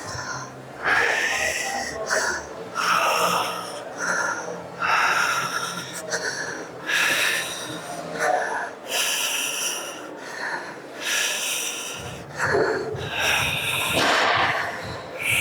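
A man breathing hard with forceful, hissing exhales, about one every couple of seconds, as he works through a set of weight-training reps.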